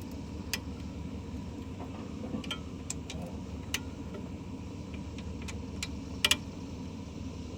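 Scattered light clicks of tools and parts being handled, with a sharper clink about six seconds in, over a steady low rumble.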